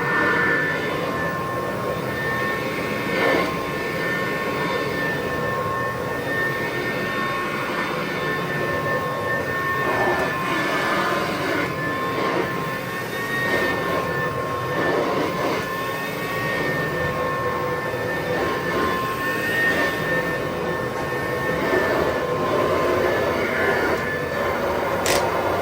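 1963 Kirby Sanitronic VII upright vacuum running on carpet: a steady motor and fan drone with two high whining tones, swelling and easing slightly as it is worked over the carpet. A single sharp click near the end.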